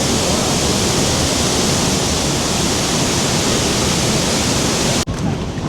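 Rhine Falls waterfall heard up close: a loud, steady rush of falling water. It cuts off abruptly about five seconds in, leaving a quieter background.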